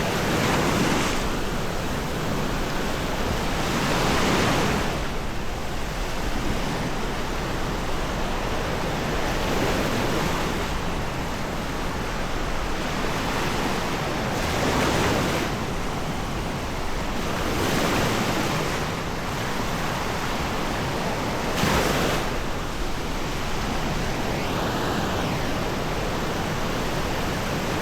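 Sea waves washing onto a sandy beach, a steady rush that swells every few seconds as each wave breaks.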